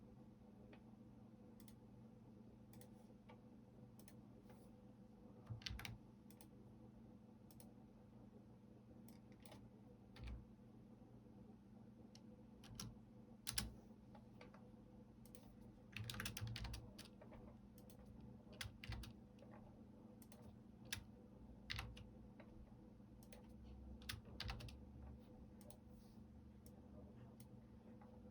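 Soft computer-keyboard typing in short, scattered clusters of keystrokes with pauses between them, over a faint steady hum.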